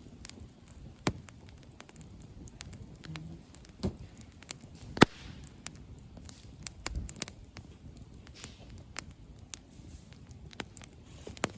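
Wood campfire crackling, with irregular sharp pops and one louder snap about five seconds in.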